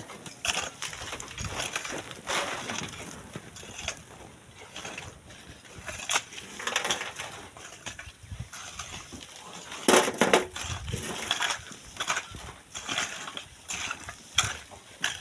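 Sand and stones being dug and shovelled by hand: irregular crunching and scraping strokes, one louder crunch about ten seconds in.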